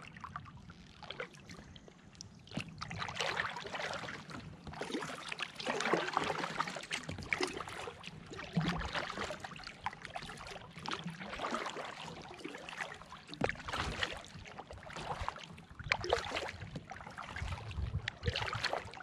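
Kayak paddle strokes: the blades dipping and pulling through the water, with splashing and dripping that swell and fade every second or two.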